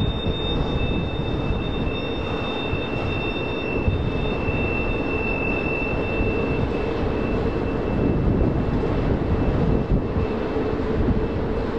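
Double-stack container freight train rolling by: a steady rumble of cars on the rails, with a thin high squeal that fades out about halfway through.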